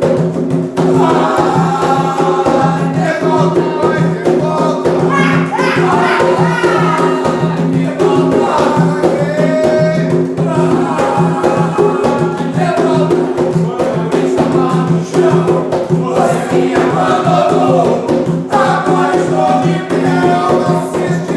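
A group of voices singing an Umbanda ponto, a ritual chant, in phrases over a steady percussion beat, with held low notes sounding underneath.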